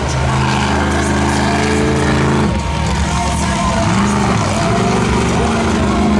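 Monster truck engine running loud, its note shifting about two and a half seconds in, then revving up and falling back a second or so later.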